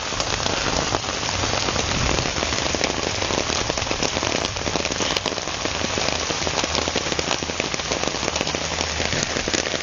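Heavy rain falling steadily, a dense patter of drops splashing onto soggy ground and puddles.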